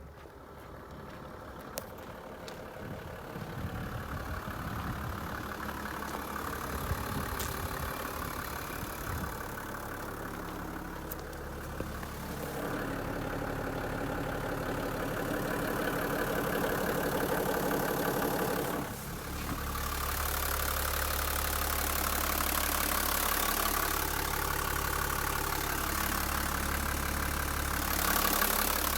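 Toyota Coaster bus's 1HD straight-six diesel engine idling steadily. It grows louder about 12 seconds in, and again after a brief drop about 19 seconds in, with a strong low hum.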